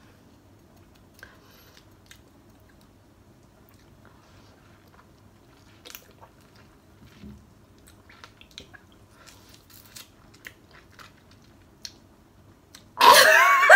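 Faint wet clicks and smacks of a person biting and chewing a raw lemon slice. Near the end there is a short, loud vocal cry with a wavering pitch, a reaction to the sourness.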